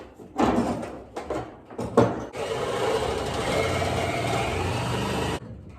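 A power tool runs steadily for about three seconds, then stops abruptly. Before it starts there are a few short scraping noises and a sharp knock about two seconds in.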